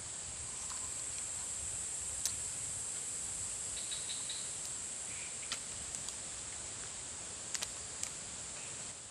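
Night-time insect chorus in the forest: a steady, high-pitched drone, with a handful of short sharp ticks and clicks scattered through it.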